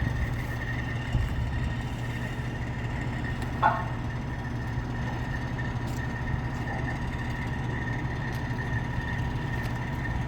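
Heavy vehicle engine running steadily with a low hum, with a brief chirp or squeak about three and a half seconds in.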